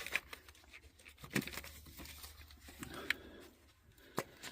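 A few faint, sharp clicks and light knocks from ignition coils being unhooked and pulled out of the spark plug holes of a Honda Accord's four-cylinder engine, with soft handling noise in between.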